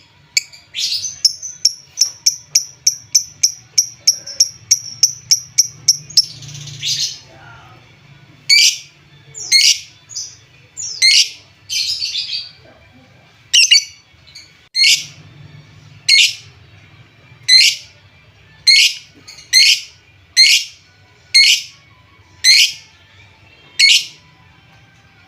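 Lovebird calling: a quick run of sharp chirps, about three a second, for the first six seconds, then a short harsh burst, then loud shrill calls spaced about a second apart.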